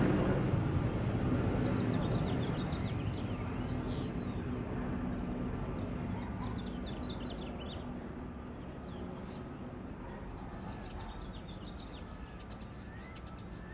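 A passing engine's low drone fades steadily away while small birds chirp repeatedly with short, quick high notes.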